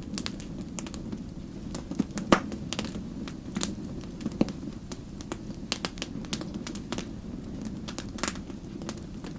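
Wood campfire burning: a steady low rumble of flame with irregular sharp crackles and pops from the burning logs, the loudest pops about two and four seconds in.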